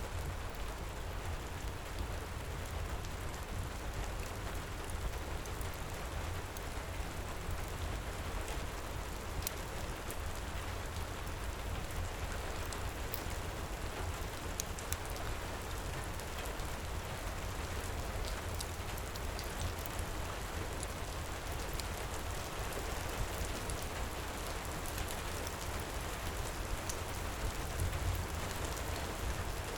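Heavy rain pouring steadily, with scattered small crackles from a fireplace beneath it.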